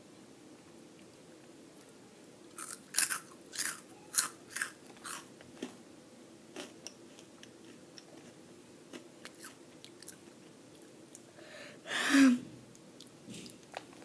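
Someone biting into and chewing a crunchy Flamin' Hot Cheeto. There is a quick run of about six loud crunches a few seconds in, then softer, sparser chewing clicks. Near the end there is a short breathy vocal sound from the mouth.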